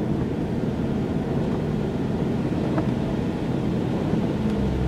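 A car driving, heard from inside the cabin: steady engine and road noise, with a faint low hum.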